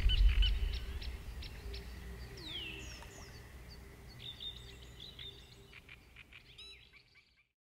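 Faint birdsong: scattered short chirps and whistles, one call gliding downward, over a soft natural background that fades out completely near the end. Background music dies away in the first moments.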